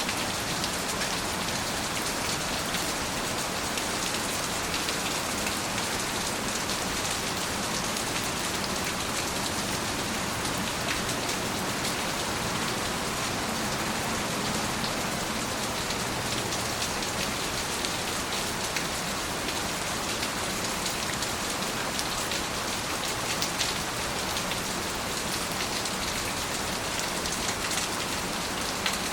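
Steady, heavy rain falling, with the fine patter of many drops hitting surfaces.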